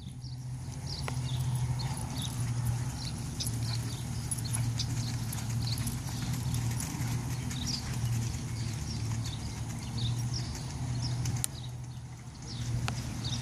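Paso Fino horse's hooves clip-clopping in a steady run of footfalls.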